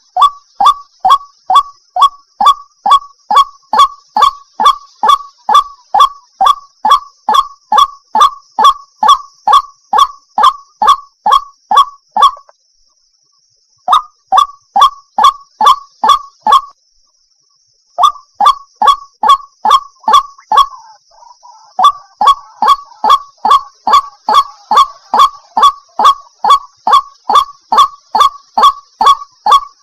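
White-breasted waterhen call played as a lure: a rapid, even run of harsh "kwak" notes about three a second, stopping dead twice for a second or two and starting again.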